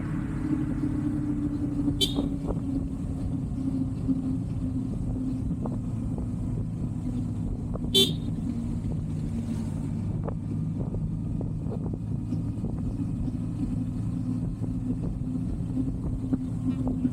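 Kawasaki Versys 300X parallel-twin engine running steadily on the move, with two short horn toots, about two seconds in and again about eight seconds in.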